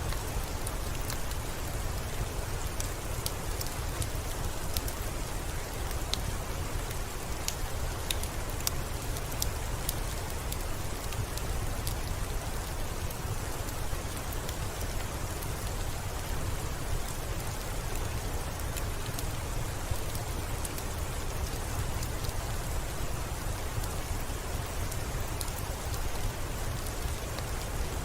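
Steady rain falling: an even hiss over a deep low rumble, with scattered sharp ticks that are most frequent in the first half.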